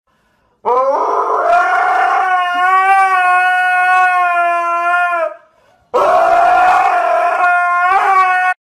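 Dog howling: two long howls, the first rising in pitch and then held for about four seconds, the second shorter, starting after a brief breath.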